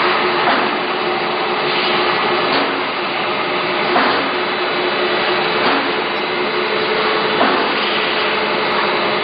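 Factory machinery on a water heater tank production line running steadily, a continuous machine hum and noise with irregular knocks and clanks every second or two.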